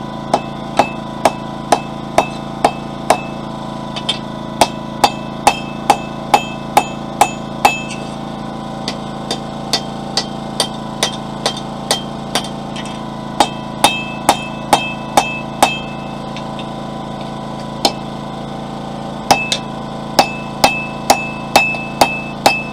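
Hand hammer striking a hot steel bar on an anvil, drawing it out: runs of ringing blows at about two a second, broken by short pauses and a few lighter taps. A generator hums steadily underneath.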